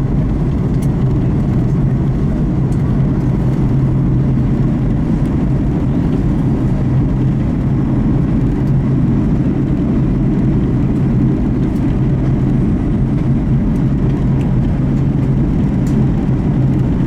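Boeing 737 MAX 8 cabin noise on the approach: a steady rumble of engines and airflow with a constant low hum.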